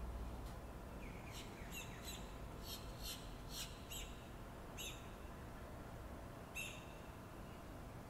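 Birds chirping: a quick run of short, high calls from about a second in until around five seconds, then one more near the end, over a low steady background rumble.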